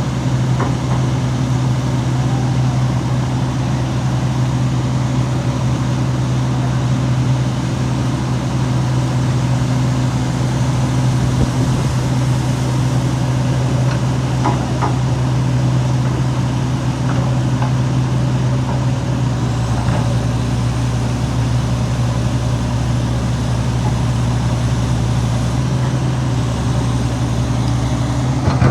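Heavy diesel engine idling steadily with a constant low hum, a few faint clicks about halfway through.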